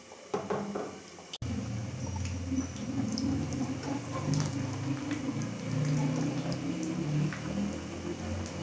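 Dough rounds frying in hot oil in a steel pan: steady bubbling and sizzling with scattered small pops and light clicks of a spatula and fork as the rounds are turned. The frying sound comes in abruptly about a second and a half in.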